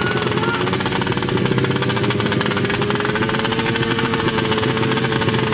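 Racing underbone motorcycle engine running hard at high revs with a rapid rattling exhaust, its pitch climbing slowly as it pulls.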